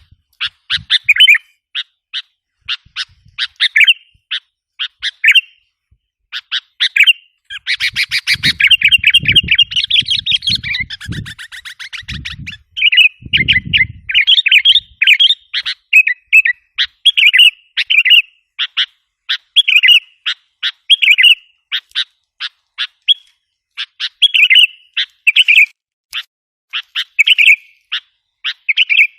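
Sooty-headed bulbul calls: short sharp chirps repeated over and over, played as a lure for wild bulbuls. A stretch of dense, harsh chattering comes from about 8 to 14 seconds in.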